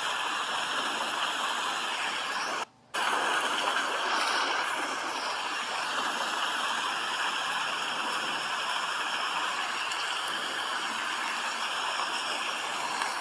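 Steady rain, an even hiss of falling drops, cutting out abruptly for a moment just under three seconds in before carrying on unchanged.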